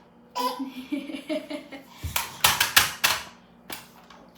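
Toys clattering as a toddler handles and bangs them: a quick run of hard clicks and knocks about two seconds in, after softer handling clicks.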